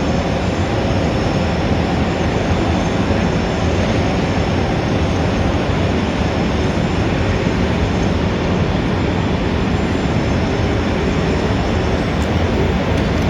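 Steady, dense city traffic noise: a continuous low rumble of engines and tyres with no single vehicle or event standing out.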